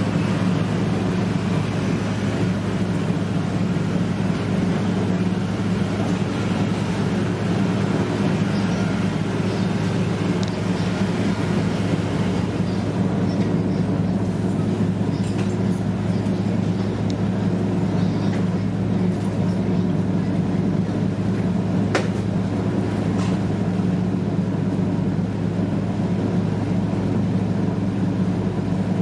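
Ferry engines running with a steady low drone, with one sharp click about three-quarters of the way through.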